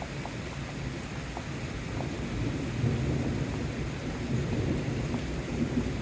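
Steady rain hiss with thunder rumbling in, the low rumble building about two seconds in and rolling on in swells.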